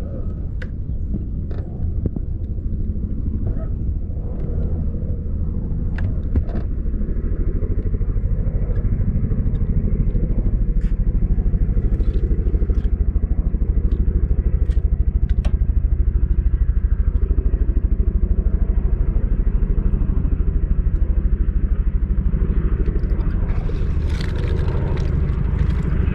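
Boat outboard motor running underway, a steady low rumble that builds over the first several seconds and then holds.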